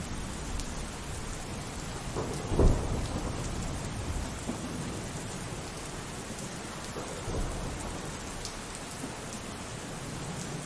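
Steady rain with thunder: a sharp clap about two and a half seconds in, the loudest moment, followed by low rumbling that dies away, and a softer rumble later.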